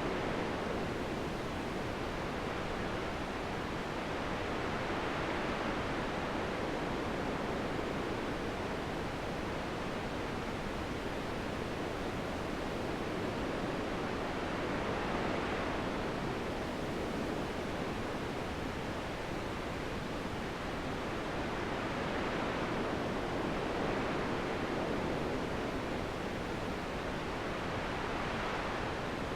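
Steady rushing wind, swelling and easing in slow gusts every several seconds.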